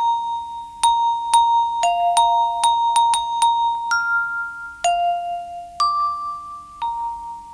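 A short melody of about a dozen struck, bell-like metal notes in the manner of a glockenspiel, each ringing on after it is struck, fading out near the end.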